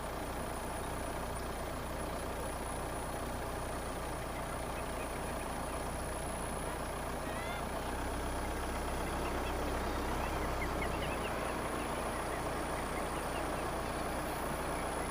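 Steady low rumble of a car driving slowly along a road, with faint short chirps rising in pitch from about halfway through.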